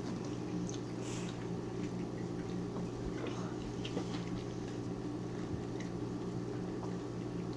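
Quiet eating at a dinner table: scattered faint small clicks and soft squishy sounds over a steady low hum.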